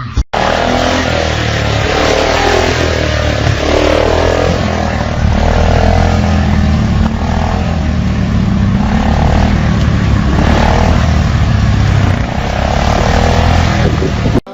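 Motorcycle running at speed: a loud, steady low rumble under a rushing noise.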